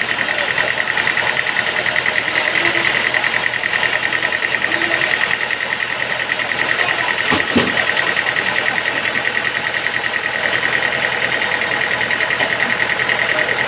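Sawmill machinery running steadily with a fast, even pulsing drone, and a single sharp knock about halfway through.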